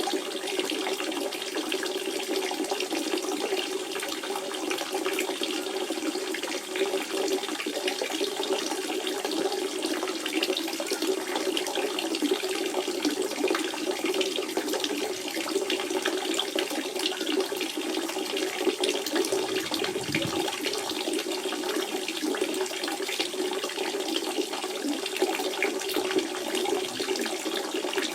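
Spring water running and splashing in a steady stream, a continuous burbling rush.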